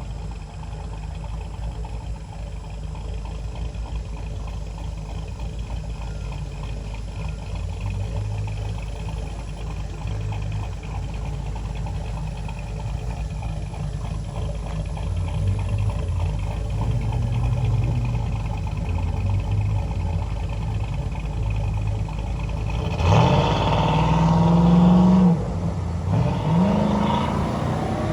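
Cammed 5.3 V8 in a Chevrolet Silverado idling through its exhaust with an uneven, loping rumble, then revved twice near the end: the first rev held for about two seconds and cut off sharply, the second shorter.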